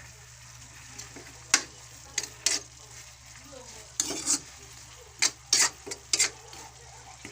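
A cooking utensil scraping and knocking against a pan while chicken feet adobo is stirred, with a faint steady sizzle underneath. There are short clatters about a second and a half in, twice more near the middle, and a quick run of four near the end.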